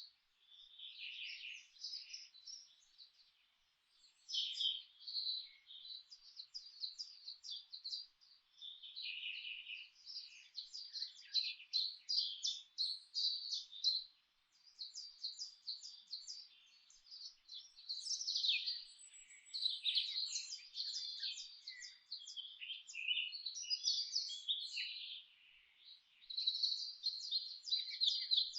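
Songbirds chirping and singing in rapid, overlapping phrases, with brief lulls between bursts.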